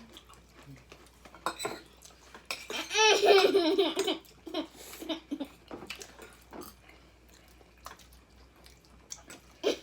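Forks and knives clicking and scraping on plates while people eat, with a burst of high-pitched laughter about two and a half seconds in.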